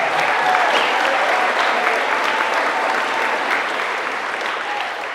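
Audience applauding and cheering loudly, dying down near the end.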